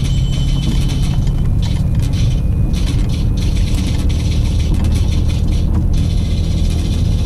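Car driving on snow-covered roads: a steady low engine and road rumble, with irregular clicks and rattles over it.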